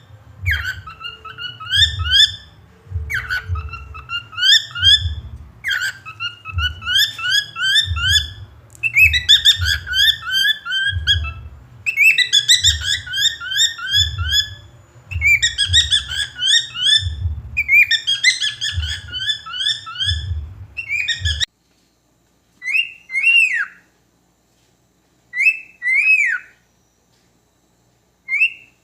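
Cockatiel whistling its song: phrases of quick rising notes repeated about every second and a half, with a low rumble beneath. About 21 seconds in the rumble cuts off, and the bird gives just three short, separate two-note whistles.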